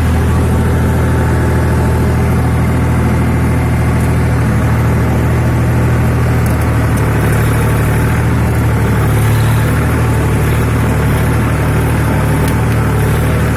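Massey Ferguson 7250 Power Up tractor's three-cylinder diesel engine running steadily while pulling a nine-tine cultivator through the soil, its pitch wavering slightly partway through as the load changes.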